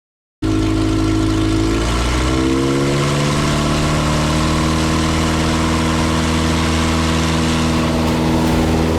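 Carbon Cub light aircraft's piston engine and propeller running, cutting in abruptly about half a second in; about two seconds later the engine speeds up, its pitch rising, then it holds steady.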